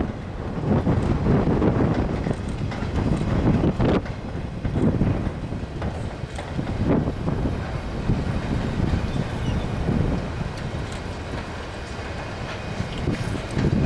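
A freight train's cars rolling past on the rails in a steady rumble, with wheel clatter.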